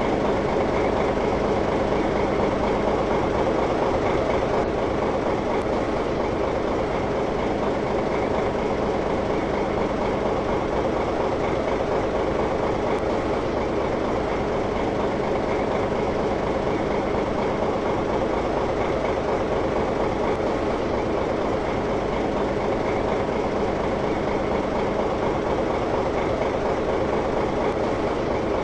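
A motor running steadily: a loud, even machine noise with a constant hum, unchanging throughout.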